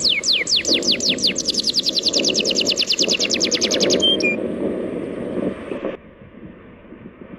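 A bird giving a fast, even run of falling whistled notes, about eight to ten a second, that stops about four seconds in. Under it a steady low rush of sea waves cuts off suddenly near the end.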